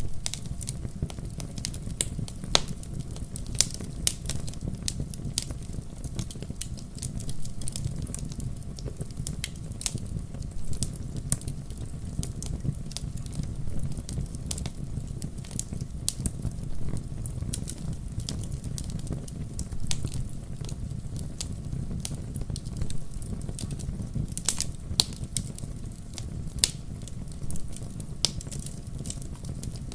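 Wood fire in a fireplace crackling, with irregular sharp pops, a few louder than the rest, over a steady low rumble.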